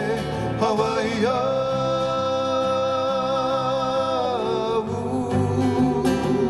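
Live Hawaiian song: a singer holds one long note over steadily strummed acoustic guitar, then lets it go and the strumming carries on.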